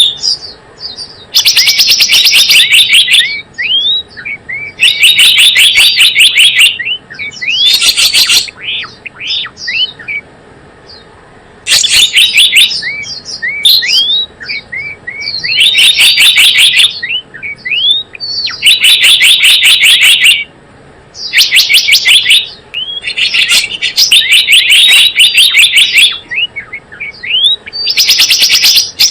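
Gelatik bloong bird lure call: loud bursts of rapid, evenly repeated high notes lasting a second or two, recurring over and over, with short upward-sweeping chirps in between.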